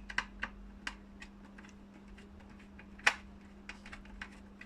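Irregular small clicks and ticks of a screwdriver working a screw out of a plastic steam-iron housing, with one louder click about three seconds in. A steady low hum runs underneath.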